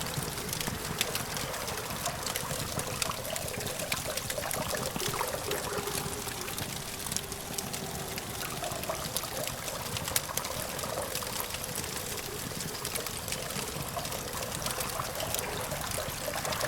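Campfire crackling, with many small snaps and pops over a steady low hum of distant traffic.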